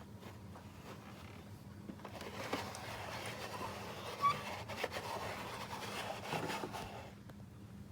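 Plastic toys handled by hand: soft rustling and scraping with a few light clicks, as the toy gondola cable car is brought in to the station.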